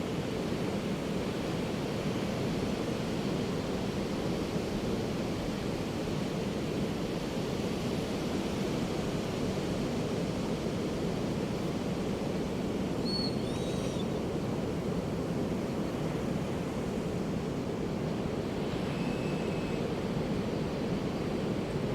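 Steady, unbroken rush of Pacific surf from ocean waves breaking on the beach. A couple of faint, brief high-pitched calls come through the surf, about halfway through and again near the end.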